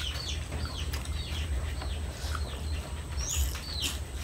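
Small birds chirping: many short, high, falling chirps, several a second, over a low steady rumble.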